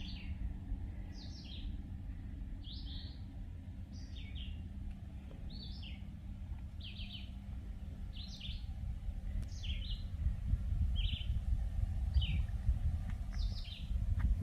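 A songbird singing a short, high, two-part phrase over and over, about once every second and a half, over a low steady rumble.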